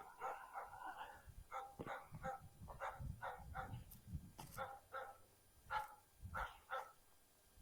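A young bird dog whining and yipping in short, high, repeated cries, about two a second, as he gets excited over birds.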